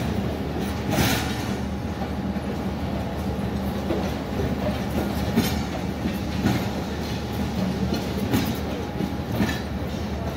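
Pakistan Railways express passenger coaches rolling past along the platform with a steady rumble. Short clacks of the wheels over rail joints come every one to three seconds.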